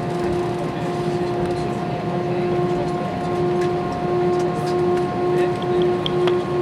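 Cabin noise inside an Airbus A320 taxiing after landing: a steady hum from the idling engines and aircraft systems, with steady whining tones. The lower tone starts to pulse regularly about four seconds in. A few faint light clicks come near the end.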